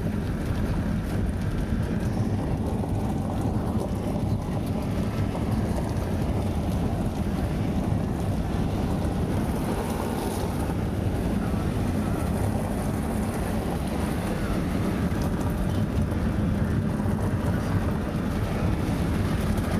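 Steady low rumble of a vehicle being driven: road and engine noise heard from inside the cabin.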